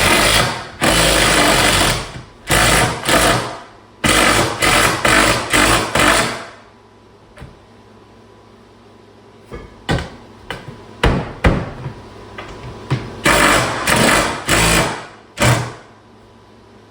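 Power drill driving screws in a series of short bursts, each a second or two long, with a few sharp clicks between runs.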